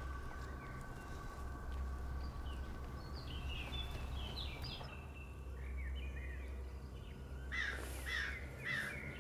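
Outdoor ambience with birds calling over a steady low hum: a run of short, falling chirps in the middle, then three louder calls near the end.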